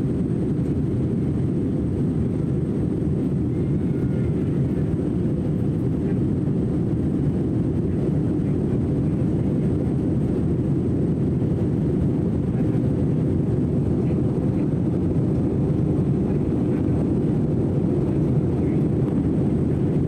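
Airliner cabin noise heard from a window seat during descent: the jet engines and rushing airflow make a steady low rumble that does not change.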